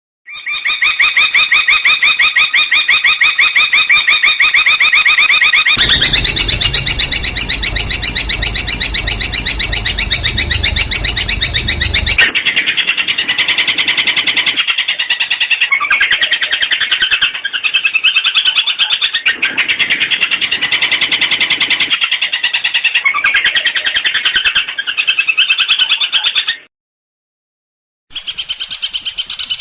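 Long-tailed shrike (cendet) singing a loud, rapid stream of fast repeated notes, a harsh chattering trill. For about six seconds in the first half it runs harsher and fuller. It breaks off briefly near the end, then starts again.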